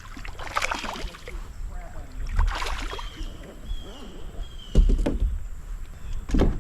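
Hollow knocks on a plastic fishing kayak's hull, two loud ones near the end, over a low rumble of water and wind. Faint voices and a few short high chirps come in the first half.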